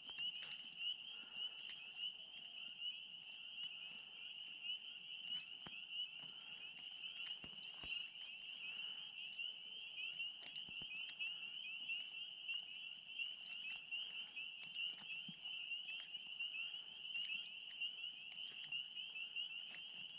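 A steady chorus of frogs calling, a dense high trilling made of rapid repeated chirps, with a few scattered light clicks and taps over it.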